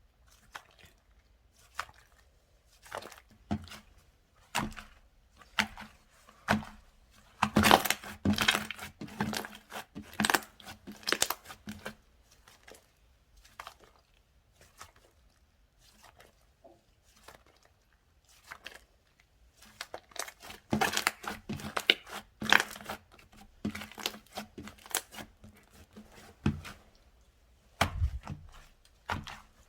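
Slime being squished and stretched by hand, giving bursts of crackling and clicking sounds. There is a quieter stretch with only a few clicks in the middle.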